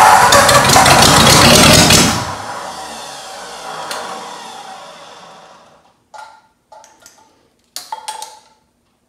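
A rebuilt 1937 Ford flathead V8-60 engine, struggling through its first start, runs loudly and cuts out about two seconds in, its sound trailing off over the next few seconds. After that come a few light metallic clicks and taps.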